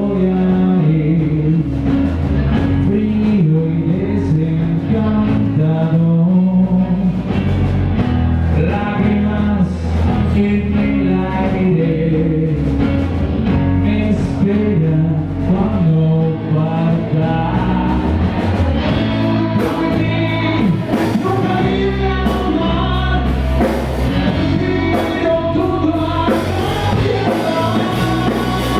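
Rock band playing live with a lead vocal singing over drums and guitars.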